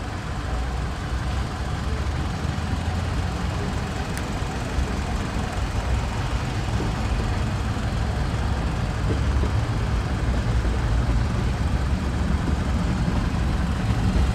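Steady low rumble of the Citroën C-Crosser's 2.4-litre inline-four idling.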